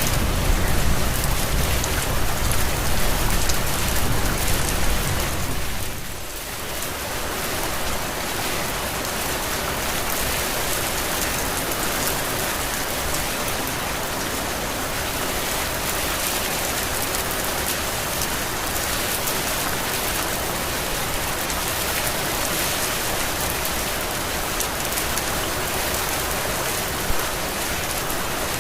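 Heavy rain falling steadily as a dense, even hiss. For the first six seconds a deep low rumble runs under it, then dies away.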